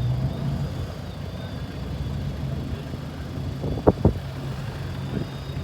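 Car engine running steadily, with two sharp knocks in quick succession about four seconds in.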